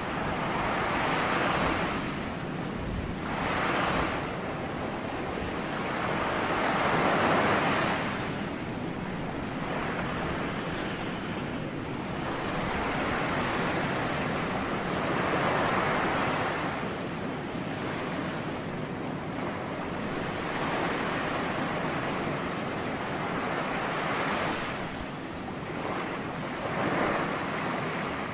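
Ocean waves breaking and washing on the shore, the surf rushing up in swells every few seconds and then easing back.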